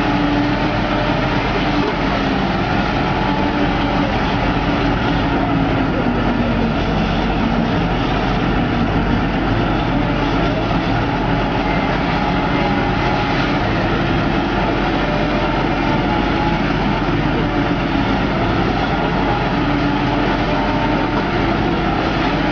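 Heavy hydraulic excavator's diesel engine running steadily under load, its low engine note wavering up and down as the machine works.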